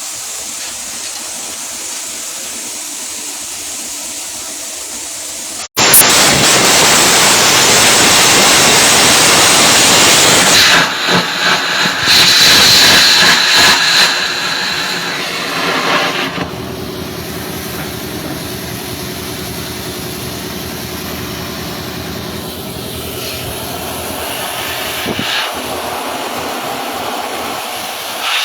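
Arc welding: a steady hiss, then, about six seconds in, a sudden much louder crackling sizzle from the arc that lasts about ten seconds before dropping back to a quieter steady hiss.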